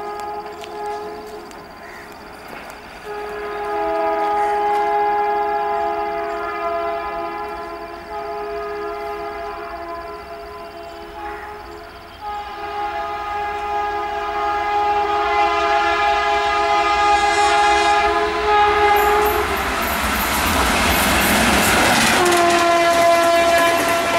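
Locomotive air horn sounding two notes at once in several long blasts as a train approaches. About two-thirds of the way through, the loud rush and clatter of the train passing takes over, and the horn sounds again near the end.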